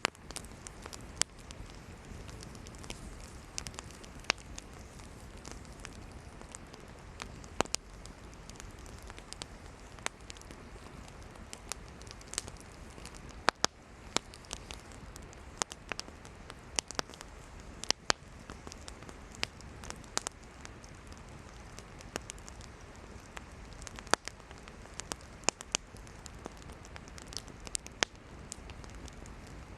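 Wood campfire burning: irregular sharp crackles and pops of burning firewood, a few of them loud, over a steady soft hiss.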